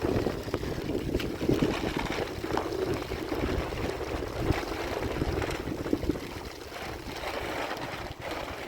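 Strong wind buffeting the microphone in a rainstorm, gusting unevenly, with scattered sharp taps over the rush of rain.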